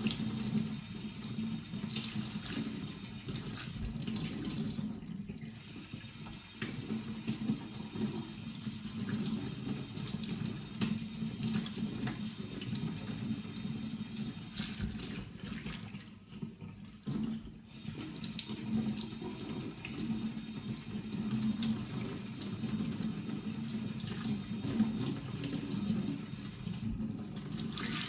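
Tap water running into a sink while a dirty vacuum sponge filter is rinsed and squeezed under the flow, with a few brief lulls.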